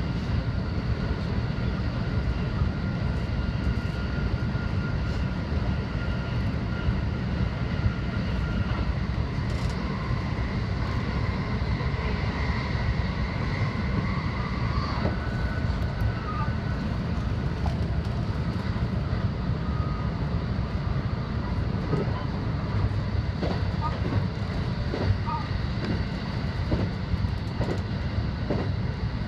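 Electric local train running along the line, heard from inside the front car behind the driver's cab: a steady low rumble of wheels on rail with a few faint steady tones above it. Faint clicks come in over the last several seconds.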